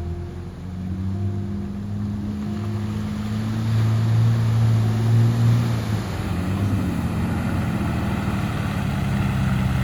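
A 4WD vehicle's engine running steadily under a rushing noise, the engine note dipping a little past the middle before picking up again as the sound grows louder.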